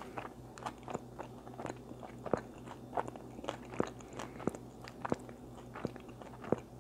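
A person chewing a mouthful of food with the mouth closed, picked up close by a clip-on microphone: a string of short, moist chewing clicks, about two a second.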